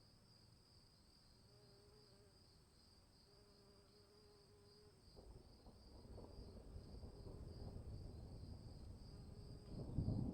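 Crickets chirping in a steady, fast-pulsing trill. Low noise swells in from about halfway through and grows louder near the end.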